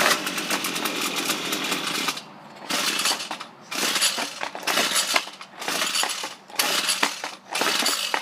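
Ryobi gas string trimmer engine being pull-started over and over, the recoil starter cranking it without it catching: a cold engine that won't start. A longer stretch of cranking at first, then about six quick pulls, each a second or less, with short gaps between.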